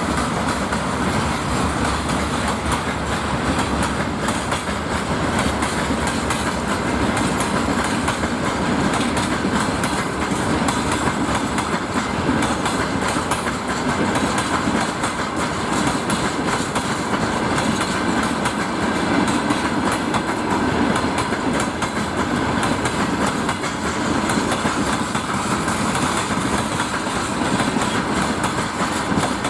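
Freight train rolling past at steady speed, its wheels clattering over the rail joints in a continuous run of clicks.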